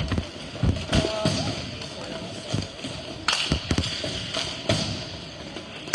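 Hockey play: sharp knocks and thuds of sticks and puck striking, a handful of irregular hits over steady rink background noise.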